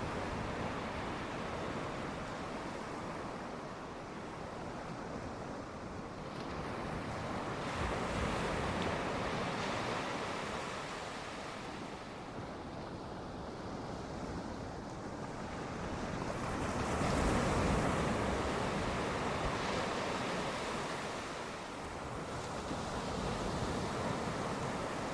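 Ocean surf washing onto the shore, a steady rushing noise that rises and falls in slow swells. The biggest surge comes about two-thirds of the way through.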